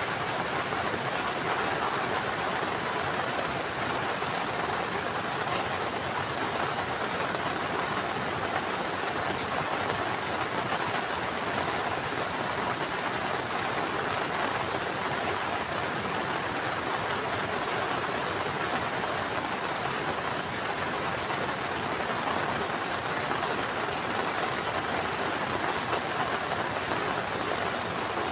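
Heavy rain falling in a steady downpour, a dense, even hiss and patter that holds at the same level throughout.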